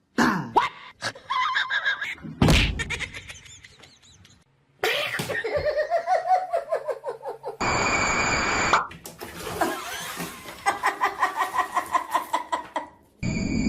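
A run of short clips cut together: people's voices and bursts of laughter, with one sharp knock about two and a half seconds in.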